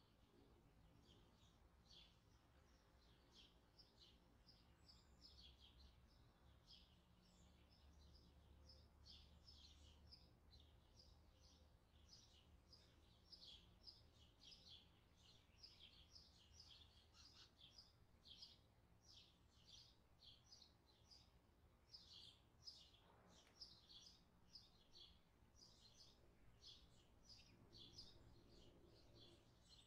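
Faint, rapid chirping of small birds, many short chirps in quick succession throughout.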